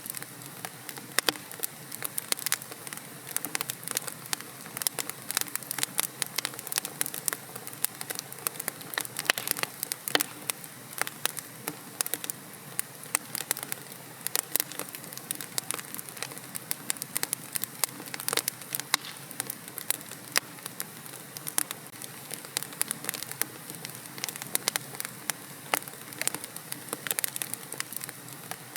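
Wood fire burning in a fireplace: a steady hiss with dense, irregular crackles and pops.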